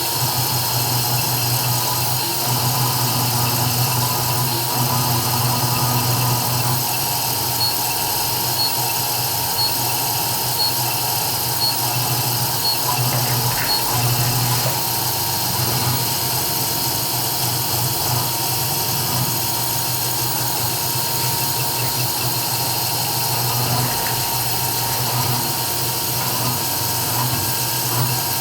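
CNC 3040 desktop router running steadily while engraving, its spindle giving a continuous high whine over a low hum.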